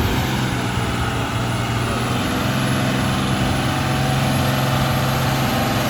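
Heavily loaded TATA truck's diesel engine running steadily under load at a held pitch, the sound of the overloaded lorry straining and unable to pull.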